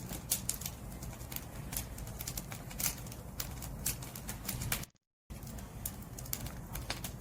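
Wood fire burning: firewood crackling and popping in quick irregular snaps over a low steady rumble of the flames. The sound drops out to silence for a moment about five seconds in.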